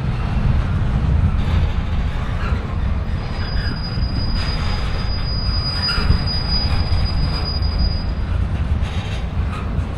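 Train rolling past with a heavy low rumble, and a thin, high, steady wheel squeal from about three seconds in until about eight seconds in.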